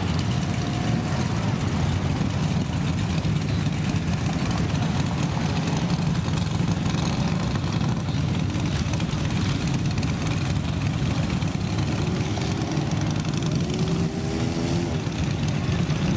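Classic car engine running with a steady, deep exhaust rumble as the car rolls slowly past.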